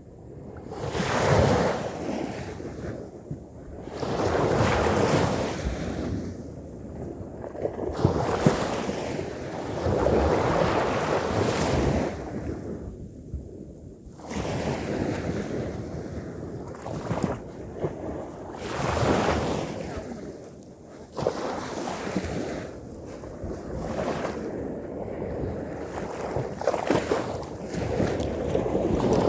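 Ocean waves breaking and washing up the shore in repeated surges every few seconds, with wind on the microphone.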